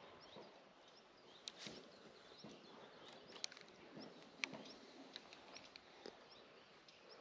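Near silence with faint bird chirps, about two short high notes a second, and a few sharp clicks.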